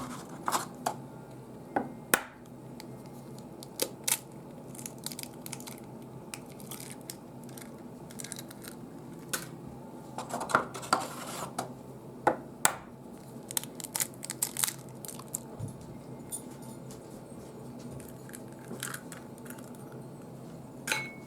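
A wet fish cake mixture of ground lake herring, potato, onion, butter and eggs being mixed in a bowl: a string of irregular short stirring noises and clicks, busiest about ten seconds in.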